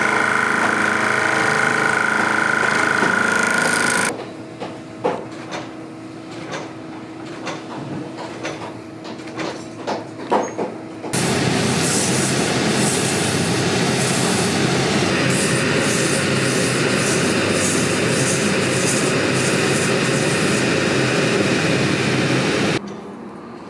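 Boot-repair shop machinery: a machine runs steadily with a high whine, stops about four seconds in, leaving scattered knocks and clicks of handwork, then a machine starts again about eleven seconds in and runs with a steady, even rushing noise until it cuts off near the end.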